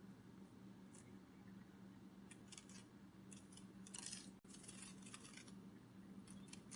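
Near silence: a faint steady hum, with scattered clusters of soft, quick, high clicks, the busiest about four seconds in.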